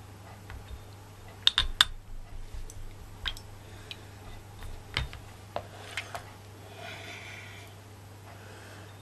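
Painting supplies being handled on a table: light irregular clicks and taps, with three sharp clicks close together about a second and a half in, a few single taps after, and a soft rustle near the end.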